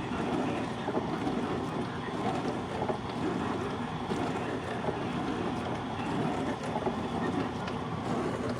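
Hermitlux countertop dishwasher running mid-cycle: a steady wash of water spraying and churning inside the tub over the low hum of its pump motor.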